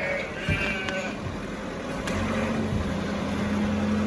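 A sheep bleats near the start, then a steady engine hum starts about halfway through and holds.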